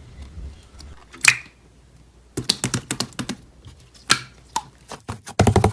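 Irregular sharp clicks and taps: a few single ones, then quick runs of clicks about halfway through and again near the end.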